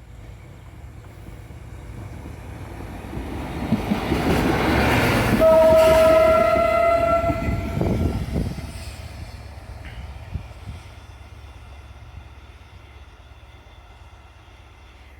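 A train going by, its rail noise building to a peak and then dying away. At the loudest point the train horn sounds one blast of about two seconds.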